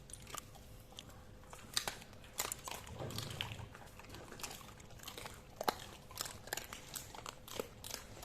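An animal crunching and gnawing on a bone: irregular sharp cracks and bites, with a dull thud about three seconds in.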